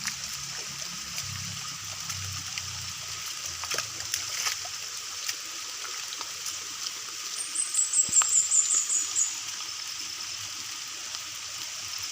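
Steady rush and trickle of a flowing river or stream, with a few small clicks. A little past the middle comes a loud, high-pitched call of about ten quick notes that step down in pitch.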